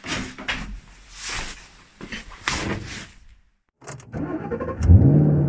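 A few seconds of irregular clattering and rustling noise, then a short break and a few sharp clicks. Near the end a motor starts, its pitch rising quickly, and then runs steadily.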